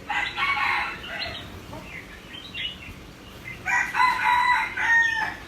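A bird giving two loud, harsh calls: one at the start and a longer one near the end.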